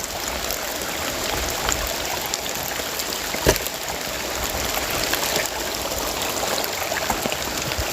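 Heavy rain falling steadily, with scattered drip clicks and one sharp knock about three and a half seconds in.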